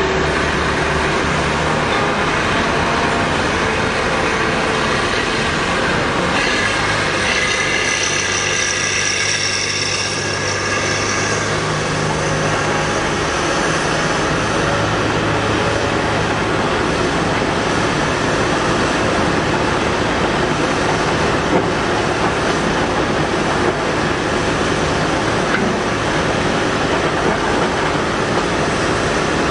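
Caterpillar 245B hydraulic excavator's diesel engine running steadily under load as it works loading trucks. A high whine joins in for several seconds, about six seconds in.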